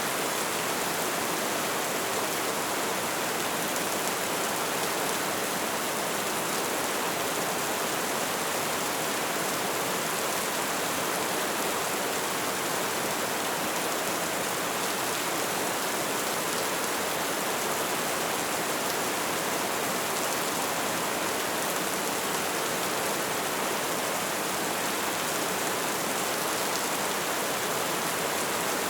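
Light rain falling steadily, an even hiss of many small drops with no distinct louder hits.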